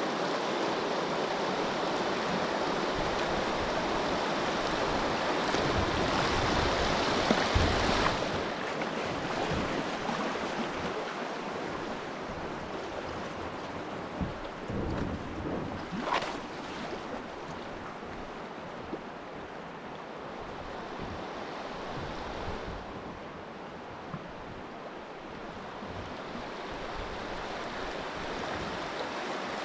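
Steady rushing of river water, with wind on the microphone and a few short knocks about a quarter of the way in and again around the middle.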